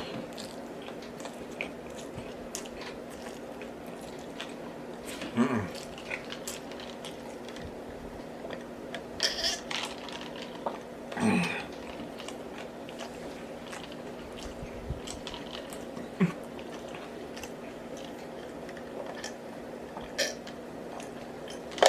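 A person chewing and biting fast food close to the microphone, with scattered wet smacks and clicks, eating as fast as he can. A steady low hum runs underneath.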